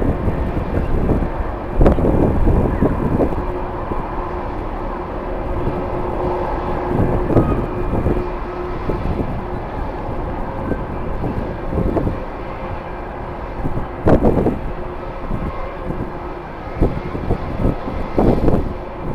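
Jet airliner engines running out on the airfield, under a heavy low rumble of strong, gusty wind buffeting the microphone, with several louder gusts.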